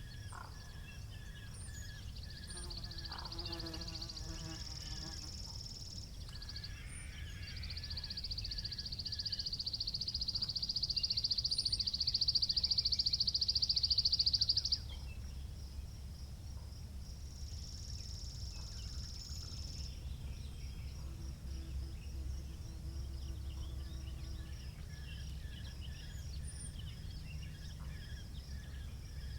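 Outdoor country ambience: a steady low wind rumble under birdsong and a high, rapidly pulsing trill. The trill comes and goes, grows loudest about a third of the way in, then cuts off sharply around the middle.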